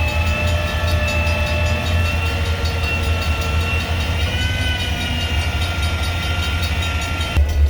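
Freight train: a steady low rumble with several thin, high, steady tones over it. The high tones cut out abruptly near the end.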